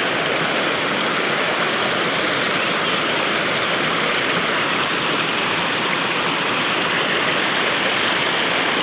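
River water rushing steadily over stones, a constant even rush.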